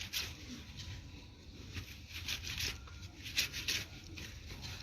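Soapy wet cloth being scrubbed by hand, rubbed against itself in short, irregular strokes.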